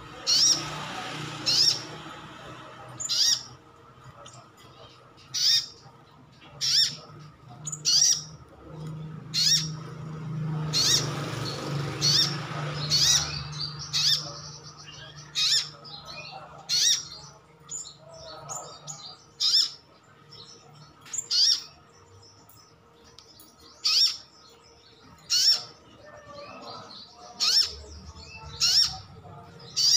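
A sunbird giving short, sharp, high call notes, one about every second or so, over and over. This is a calling recording used to get kept sunbirds to answer. A faint low hum runs underneath, and there is a soft rushing noise around the middle.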